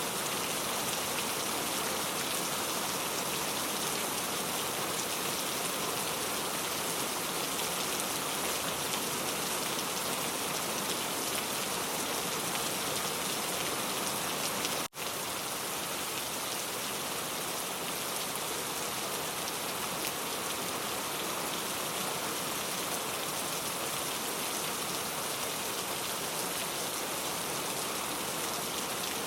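Heavy rain falling steadily as a dense, even hiss, with a momentary dropout about halfway through.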